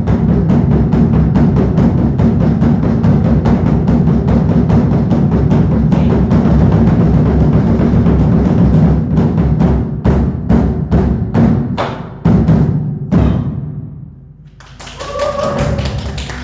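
Korean daebuk (large barrel drums) played in a fast, dense rolling rhythm, breaking about nine seconds in into spaced single heavy strokes that end with a last strike about four seconds later and ring away.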